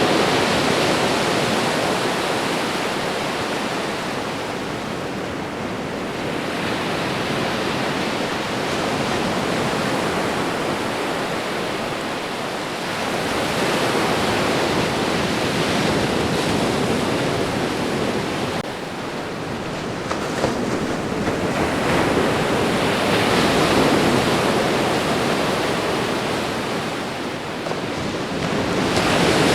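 Ocean waves breaking and washing on a shore, a continuous surf rush that swells and eases every several seconds.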